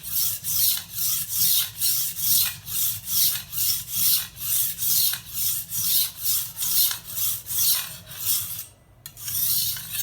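Knife blade stroked back and forth across a wet whetstone under light pressure, a rhythmic rasping of about three strokes a second; the strokes pause briefly near the end, then resume for a moment.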